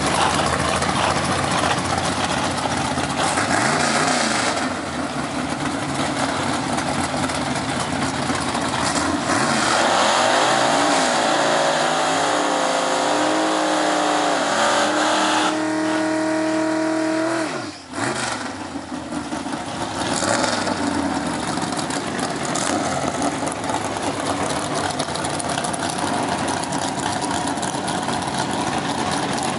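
An early Corvette drag car's engine running loudly. About ten seconds in it is revved up and held high with the pitch slowly climbing for about seven seconds, as for a burnout, then it cuts off suddenly and settles back to a loud, steady run as the car rolls forward.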